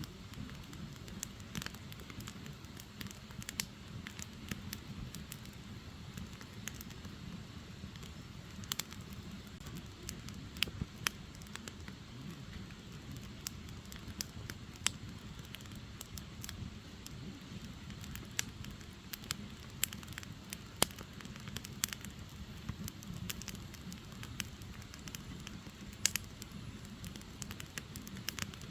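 Firewood burning: a steady low rush from the flames with irregular sharp crackles and pops from the logs.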